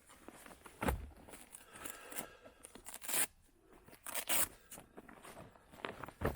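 Scattered crunching, scraping handling noises, with four or so sharper crackles standing out.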